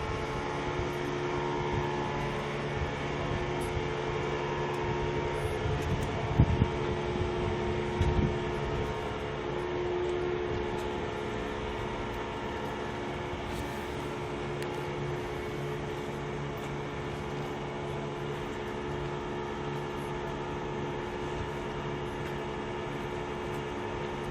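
A steady machine hum with several steady tones underneath, broken by a couple of short knocks about six and eight seconds in.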